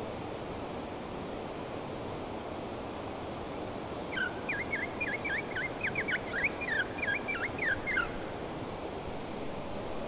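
A bird singing a run of short, downward-sliding whistled notes, about four a second, for roughly four seconds starting near the middle, over a steady rushing noise like wind.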